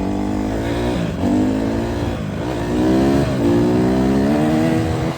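Honda CRF150R dirt bike's single-cylinder four-stroke engine accelerating hard. The revs climb, drop sharply and climb again three times as the rider shifts up through the gears.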